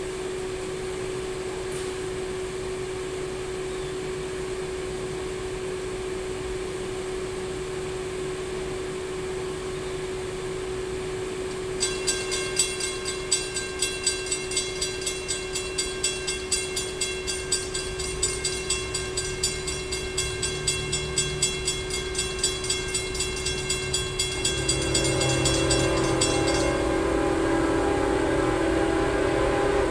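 A railroad crossing bell starts ringing about twelve seconds in, about two strokes a second, as the low rumble of an approaching diesel freight train builds beneath it. Near the end a CSX GE ES44AH locomotive sounds a long horn blast, the loudest sound, and the bell stops soon after it begins. A steady faint hum runs underneath throughout.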